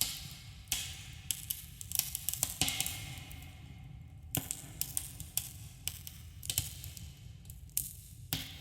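Wood campfire crackling, with irregular sharp pops and snaps over a soft hiss and a steady low rumble.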